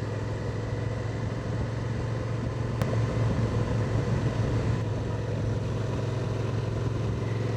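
Motorcycle engine running steadily under way on a ride, a low even hum with a little unevenness in the throttle about three seconds in.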